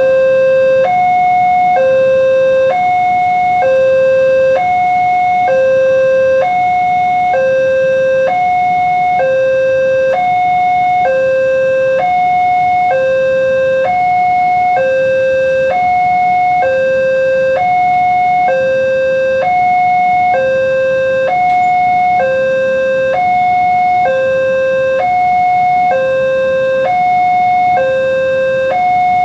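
Electronic railway level-crossing alarm sounding a steady two-tone alternation, a lower and a higher note each held just under a second, the warning that a train is approaching and the crossing is closed.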